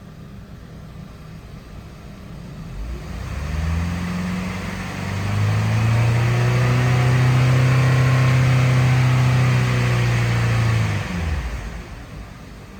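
2009 Saturn Outlook's 3.6 L V6 engine idling, then revved briefly about three seconds in. It is then revved again and held at higher revs for about five seconds before dropping back to idle near the end.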